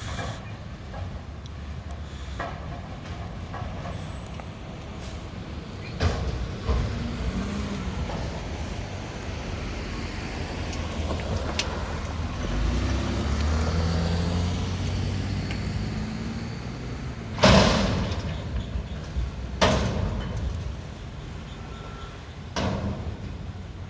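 Mack McNeilus front-loader garbage truck's diesel engine running, rising in a long rev around the middle. It is broken by several sharp bangs, the loudest about two-thirds of the way through.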